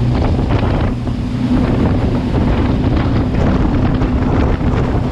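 Jet boat's twin Chevy big-block V8 engines running steadily under way, a low drone under heavy wind buffeting the microphone and rushing water.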